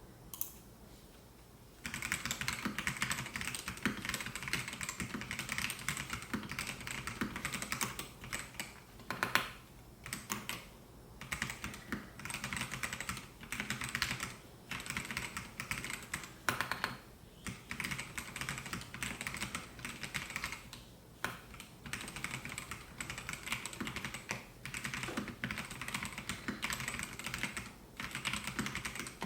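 Typing on a Melgeek Mojo68 mechanical keyboard with white Pro switches: one lone keystroke, a short pause, then a fast, steady run of key clicks broken by brief pauses.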